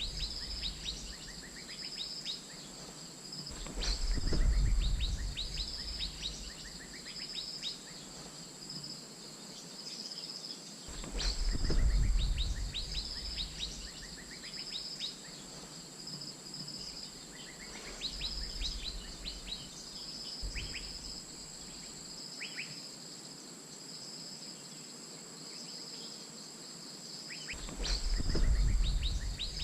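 Asian fairy-bluebird calls: quick, sharp, falling whistled notes in scattered bursts, over a steady high insect drone and a row of repeated short high notes. Deep low rumbles come and go several times and are the loudest sounds.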